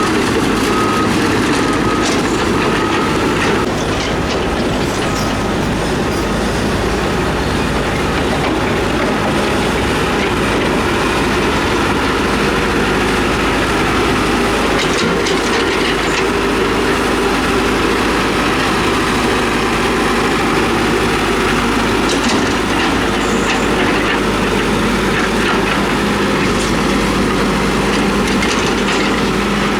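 Tracked earthmoving machine working: a steady diesel engine rumble under the clanking and squeaking of steel crawler tracks. A short high beep repeats evenly for the first few seconds.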